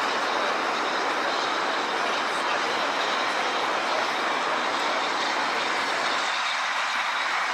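A train running, heard as a steady, even rushing noise with no distinct beats or clicks.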